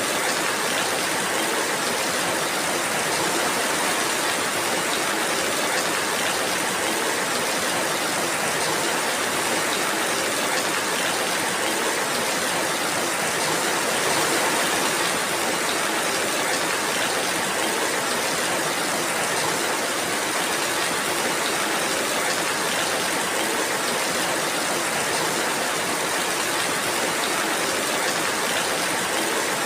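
Steady rainfall, an even hiss with no pauses or single loud drops.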